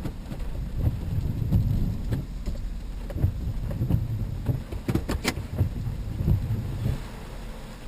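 Uneven low rumble of wind and handling on the microphone, with a quick cluster of sharp clicks about five seconds in.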